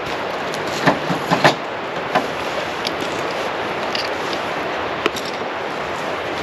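Campfire crackling, with a few sharp pops in the first couple of seconds and another about five seconds in, over a steady rushing hiss.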